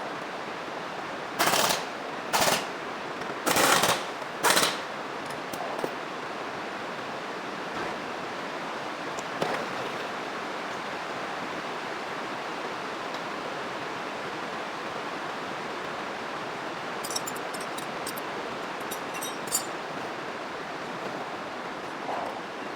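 Four short, loud bursts from a pneumatic tool in the first five seconds, over a steady hiss, with a few faint clicks later on.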